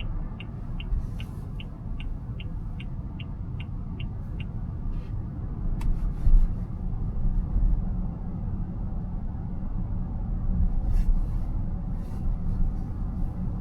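Inside a moving car's cabin: steady low road and tyre rumble, with the turn-signal indicator ticking about two and a half times a second until it stops about four seconds in. A single sharp click near the middle.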